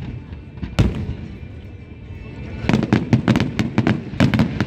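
Aerial fireworks shells bursting. One loud bang comes about a second in, then a rapid volley of many bangs over the last two seconds.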